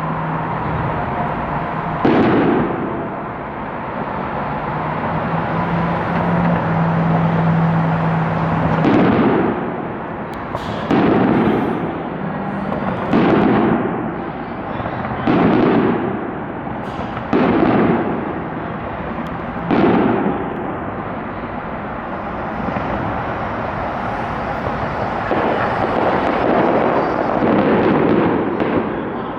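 Aerial fireworks display: a string of shell bursts, one about every two seconds, each a sharp boom that trails off. Near the end they give way to a denser run of crackling.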